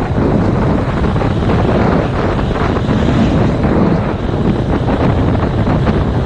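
Heavy wind noise buffeting the microphone of a GoPro Hero 5 Black on a moving motorcycle, a steady loud rush. The 2019 Yamaha MT-07's engine runs underneath it.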